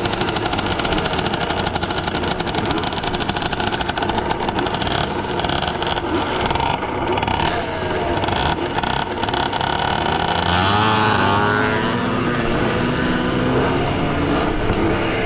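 Vintage motocross motorcycle engines running hard, several at once, their pitches overlapping and rising and falling together about ten seconds in as they accelerate.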